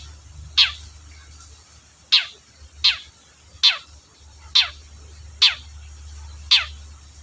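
Long-tailed shrike (cendet) giving a run of short harsh calls, each a quick downward-sweeping note, seven of them spaced roughly a second apart.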